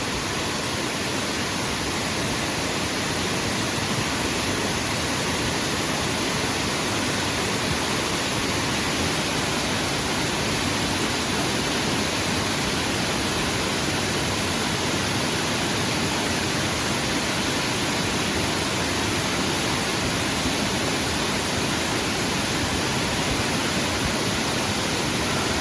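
Waterfall: rushing water falling, a steady and unbroken noise.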